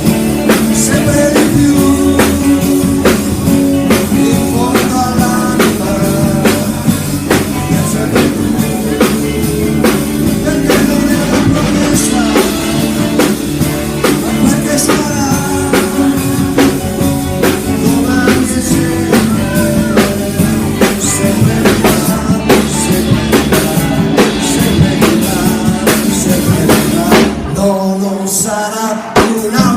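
A rock band playing with a steady drum-kit beat over sustained bass and guitar parts. Near the end the low notes drop out for about a second as the band breaks, then they come back in.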